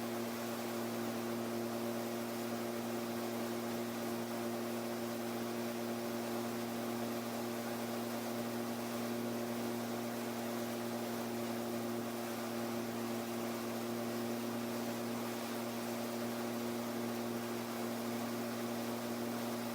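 Kallithea gyroplane in level flight, its engine and rotor making a steady, muffled drone with a constant hum and hiss.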